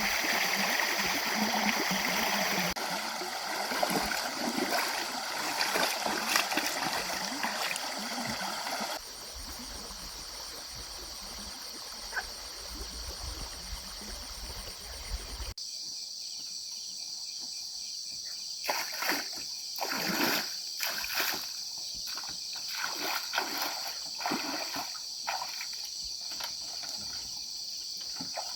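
Water splashing and trickling, with a steady high insect chirring behind it. About halfway through the water stops and irregular short knocks and rustles start over the insects.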